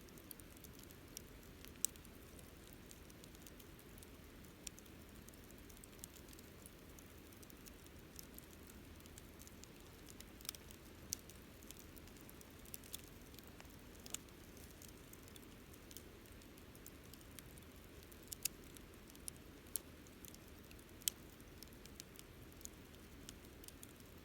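Wood campfire crackling faintly: scattered sharp pops and snaps at irregular intervals over a soft, steady low rush from the burning fire.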